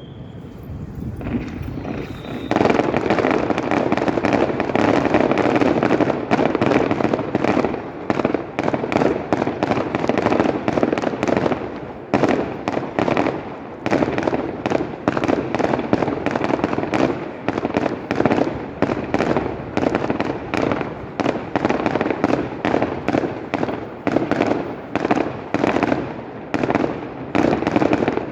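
Fireworks display going off in a dense, continuous barrage of rapid bangs and crackling. It builds up about two seconds in and keeps going with many reports a second.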